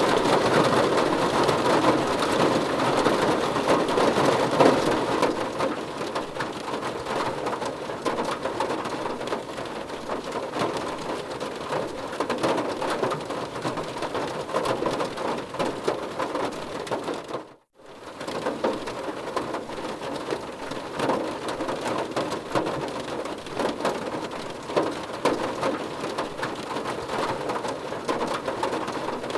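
Heavy rain falling steadily, an even dense hiss of drops. It cuts out to near silence for a fraction of a second about two-thirds of the way through, then resumes.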